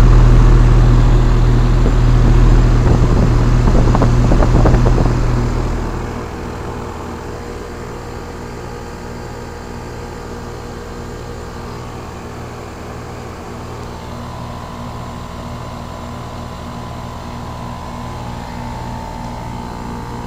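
2001 Trane XE1000 Weathertron heat pump outdoor unit running in heating mode, its compressor and fan giving a steady hum while the coil frosts up. A louder low rumble during the first six seconds eases off, leaving the steady hum.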